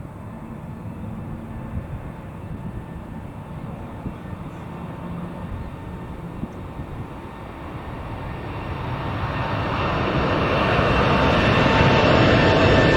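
Cargolux Boeing 747-8F freighter's four GEnx-2B turbofans at takeoff power: a low rumble that grows steadily louder from about eight seconds in, with whining engine tones rising out of it near the end as the jet comes closer.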